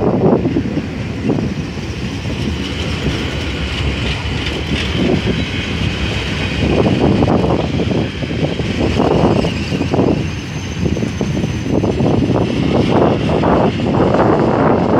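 Container wagons of a Freightliner intermodal freight train rolling past close by. A steady rumble comes with a rhythmic clatter of the wheels, repeating in surges, as the flat wagons go by.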